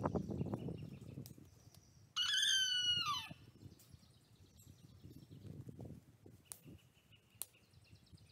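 A loud, harsh bird call about two seconds in, lasting about a second and dropping in pitch at its end. Around it are low rustling footsteps and faint distant bird chirps.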